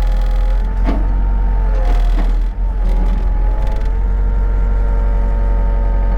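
Excavator's diesel engine running steadily under hydraulic load, its pitch dipping briefly a couple of times as the hydraulics are worked.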